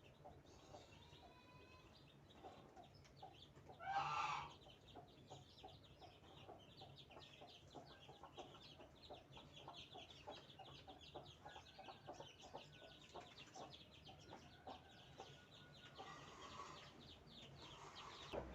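Faint native kampung chickens: newly hatched chicks peeping in a rapid, steady stream while a mother hen clucks, with one louder call about four seconds in.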